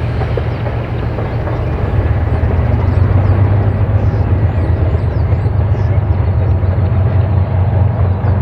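3TE10M diesel locomotive's 10D100 two-stroke opposed-piston diesel engines running steadily, a deep drone over a rushing noise that grows slightly louder.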